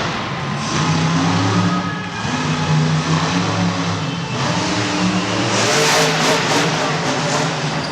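Monster truck engine revving, its pitch rising and falling. About five and a half seconds in, a louder rush of noise with sharp cracks joins it.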